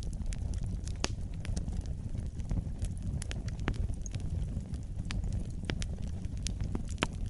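Fireplace fire crackling: a steady low rumble of flames with irregular sharp pops and snaps, two of them louder, about a second in and near the end.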